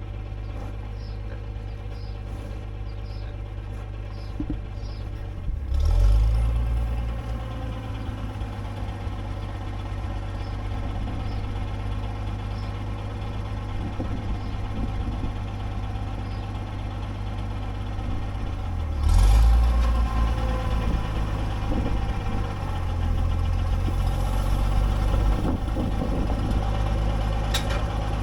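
An engine running steadily at a low, even hum, with louder low rumbles about six seconds and nineteen seconds in.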